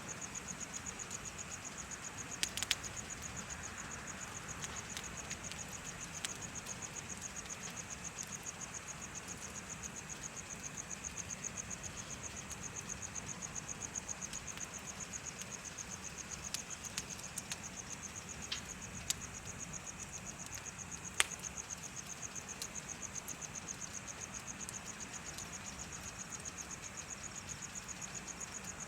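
Crickets chirping in a steady, fast, evenly pulsed high trill, with a bonfire crackling and giving off scattered sharp pops, the loudest about two seconds in and about two-thirds of the way through.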